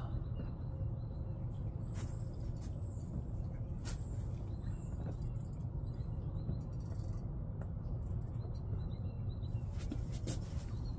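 Faint bird chirps over a steady low rumble, with a few scattered light clicks.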